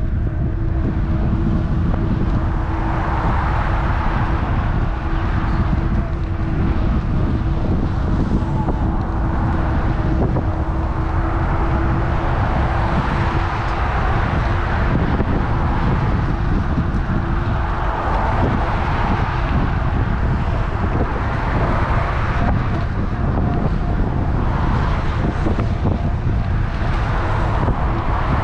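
Wind rushing over a GoPro's microphone on a moving bike, with road traffic swelling and passing. A steady hum stops about halfway through.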